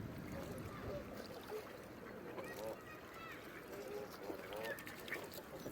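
Wild ducks calling: many short calls from several birds, scattered and overlapping, over a steady background hiss.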